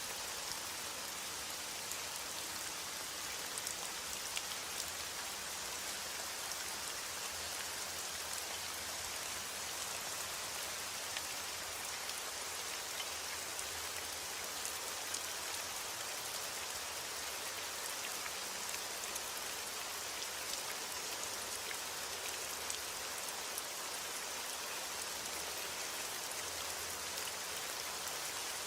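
Steady heavy rain falling, a dense hiss of drops with many small individual patters on a surface.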